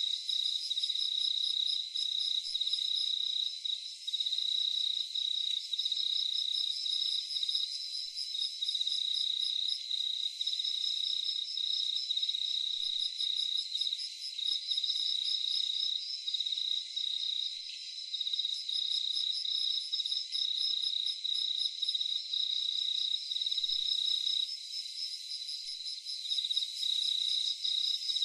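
Crickets chirping at night in a continuous chorus: one steady high trill with a second, faster-pulsing trill just above it, and fainter pulsing calls coming and going higher still.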